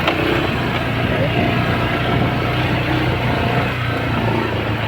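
Motorcycle engine running steadily while riding: an even low hum under a rushing noise.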